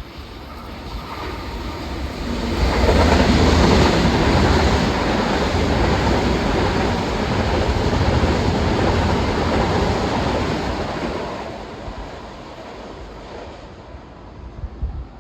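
Long Island Rail Road train going by on the tracks: a rushing noise of wheels and air builds over a couple of seconds, stays loud for about eight seconds, then fades away.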